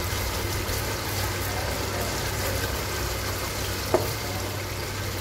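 Thick masala sizzling and bubbling as it fries in a steel pot, over a steady low hum, with a single short knock about four seconds in.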